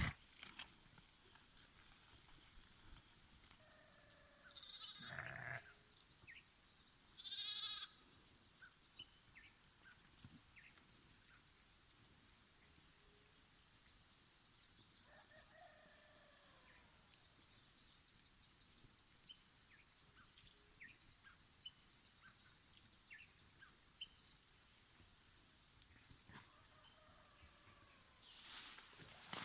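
Faint animal calls over quiet background: a short call about five seconds in, a louder one with a wavering pitch about eight seconds in, and a fainter call about sixteen seconds in.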